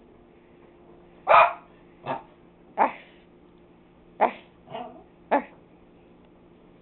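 A pet dog barking: six short single barks in two groups of three, with a pause of over a second between the groups.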